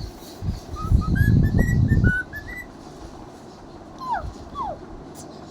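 Cockatiel whistling: a run of short whistled notes stepping upward in pitch, then two falling whistles about four seconds in. A burst of loud low noise sounds under the first notes.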